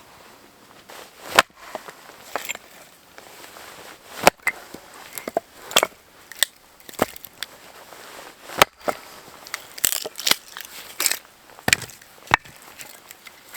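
Firewood being broken up for a fire: sharp, irregular cracks and knocks of wood, about a dozen, some in quick runs.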